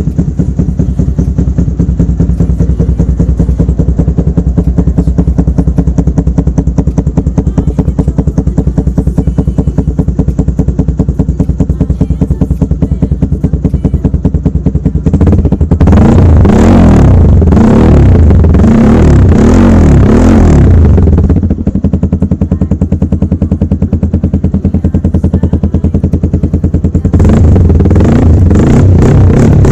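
TVS Apache RTR 200's single-cylinder engine running through an aftermarket full-system exhaust, idling steadily at first. About halfway through it is revved in a string of rising and falling blips for several seconds, drops back to idle, and is revved again near the end.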